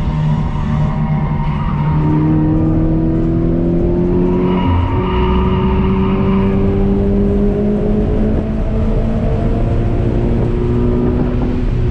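Toyota 86's flat-four engine pulling under acceleration, heard from inside the cabin. Its pitch climbs slowly from about two seconds in, with a brief break around five seconds, then holds nearly steady toward the end.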